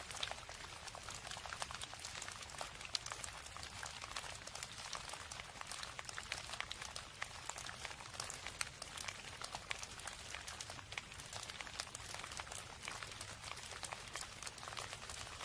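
Steady rain: a dense stream of small drop ticks over an even hiss, with a faint steady low hum underneath.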